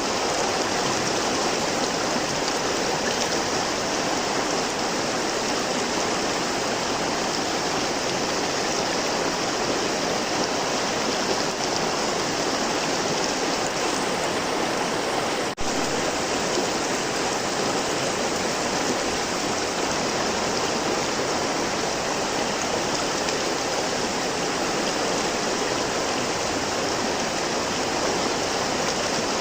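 Flowing river water, a steady even rush of noise. A brief dip in loudness comes about halfway through.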